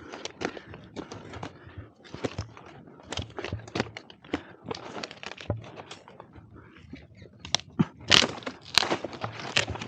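Irregular crackling and rustling, like dry leaves and twigs being crushed and snapped, with louder sharp cracks near the end.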